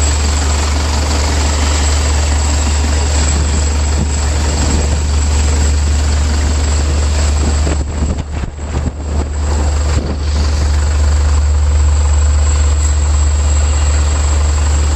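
Cummins 4BT four-cylinder diesel in a Jeep CJ-7 idling with a steady low drone. The sound drops and wavers briefly a little past halfway, then returns to its steady level.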